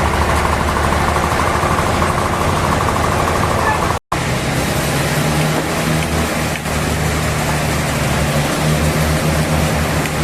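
Heavy engine-driven machinery running steadily. It drops out for an instant about four seconds in and comes back with a different, lower hum.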